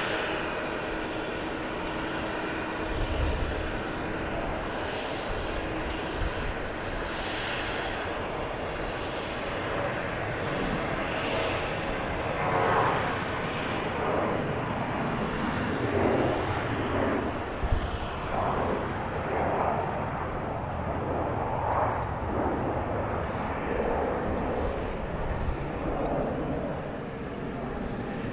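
Airliner engine noise, a steady rush that swells and fades irregularly through the second half.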